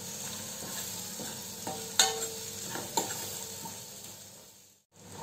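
Chopped onions frying in butter and oil in a black kadai, sizzling steadily while a spoon stirs them. The spoon knocks against the pan twice, once about two seconds in with a short ring, and once a second later. Near the end the sizzle fades and cuts out for a moment.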